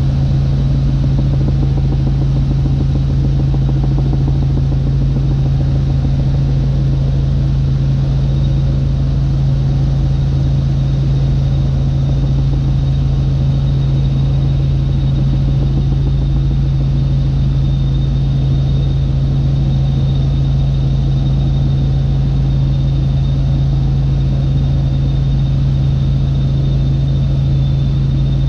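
Helicopter in flight heard from on board: the steady, loud drone of the engine and rotor, with a deep hum and a faint high whine that never change.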